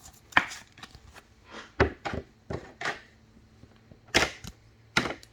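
Trading cards being handled and tapped down on a table: a string of sharp taps and short swishes, unevenly spaced, with the loudest taps about four and five seconds in.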